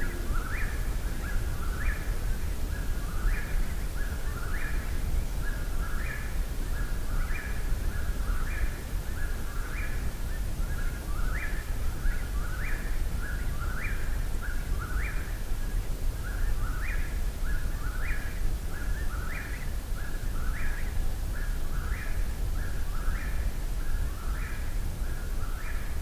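A bird at night singing the same short phrase over and over, about once every second or so, each phrase ending in a quick upward sweep. A steady low rumble runs underneath.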